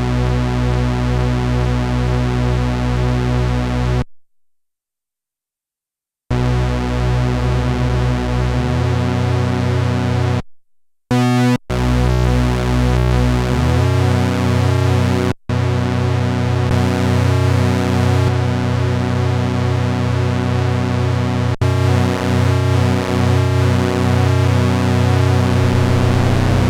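Sequential analog polyphonic synthesizer playing sustained chords over a bass note. The sound cuts out for about two seconds about four seconds in and drops out briefly again around ten seconds in, and a little later notes glide upward in pitch.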